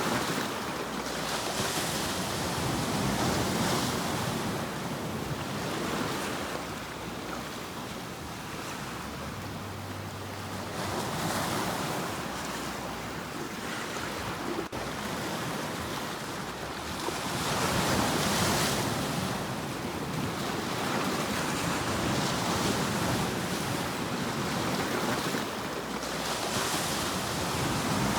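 Sea waves breaking and washing in, a steady surf hiss that swells and falls back every several seconds.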